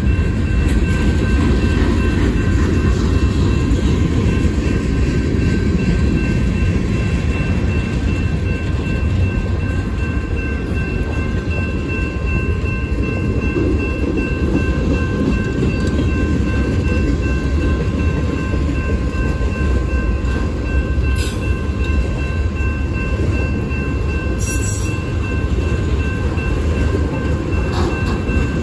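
Union Pacific freight train rolling past, a steady, loud low rumble of the cars on the rails with a faint steady whine above it.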